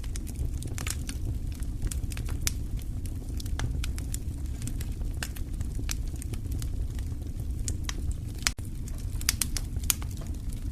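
Wood fire in a fireplace crackling and popping irregularly over a low steady rumble, with a few louder pops near the end.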